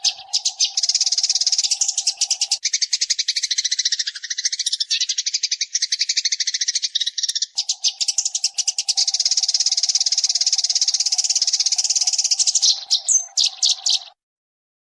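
Eurasian tree sparrow (burung gereja) song: a very fast, tight run of high chirps and chatter. A steady low hum runs beneath most of it but drops out for a few seconds in the middle. The sound cuts off abruptly about a second before the end.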